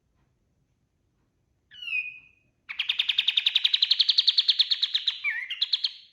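Kapas tembak songbird singing: a short falling call, then a fast, even trill of about a dozen notes a second that climbs slightly in pitch and ends in a few stepped notes.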